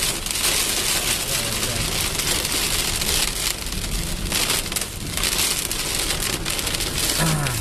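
Rain falling, a dense steady hiss, with a brief low falling tone about seven seconds in.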